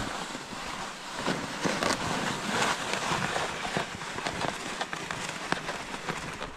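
Footsteps crunching through snow, many irregular crackles over a steady rush of wind on the microphone.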